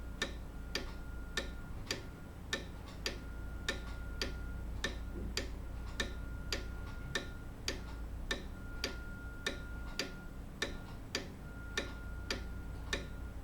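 Grandfather clock ticking steadily, about two ticks a second, over a faint low hum.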